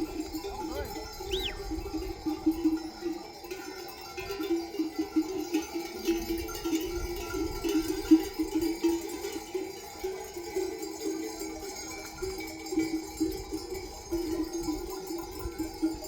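Bells on a flock of sheep clanking irregularly and continuously as the animals move, with a short high rising-and-falling note about a second in.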